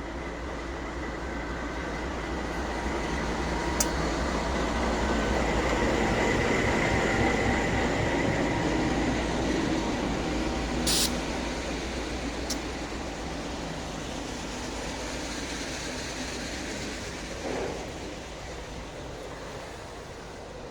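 MRS Logística freight train rolling past, the noise of wheels on rail and locomotive building to its loudest about a third of the way in, then slowly fading. A few short sharp clicks are heard along the way.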